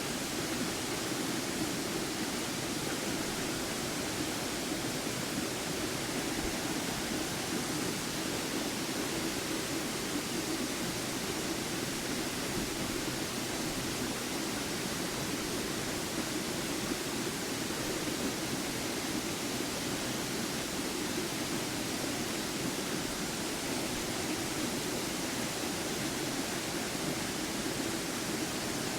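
Lanka Ella waterfall: a steady, unbroken rush of falling water.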